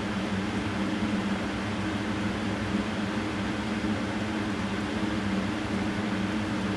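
Steady mechanical hum with a constant low drone and an even hiss, no pitch changes or impacts.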